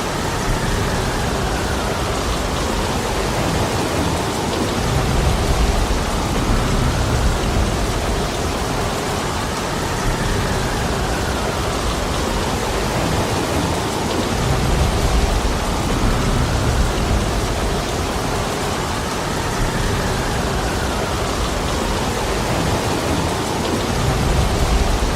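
Heavy rain falling steadily in a dense, even hiss. A low rumble swells and fades about every ten seconds.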